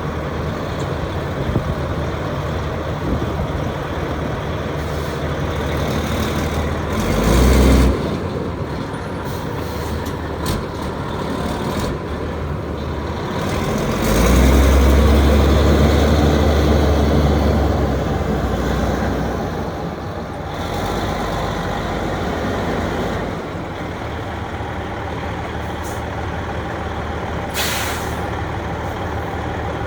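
Diesel engine of a 2005 Freightliner Century Class day cab tractor running. It swells briefly about seven seconds in and runs louder for several seconds around the middle, as if revved. A short burst of air hiss comes near the end.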